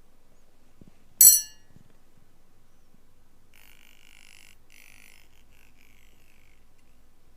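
Ear-cleaning tools: one sharp metallic click a little over a second in, then a few seconds of faint, broken scratching.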